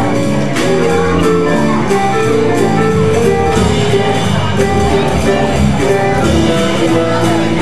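Live jazz trio playing an instrumental passage: a melodic line moving over a walking bass, with steady rhythmic strokes.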